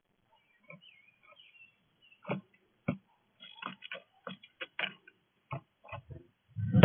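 Irregular clicks and taps at a bird feeder as an animal feeds on it, with a louder knock near the end.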